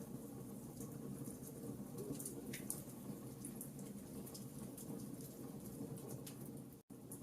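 Wood fire crackling in a fireplace: irregular sharp pops and snaps of burning firewood over a steady low rumble of the flames. The sound cuts out for a split second near the end.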